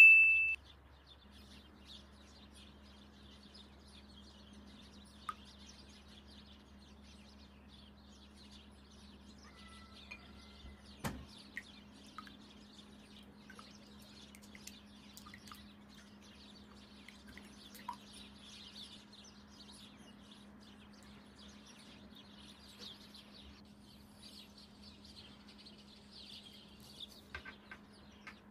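A short bright chime right at the start: the subscribe-button bell sound effect. Then faint chirping of small birds throughout, over a steady low hum, with a single soft click about eleven seconds in.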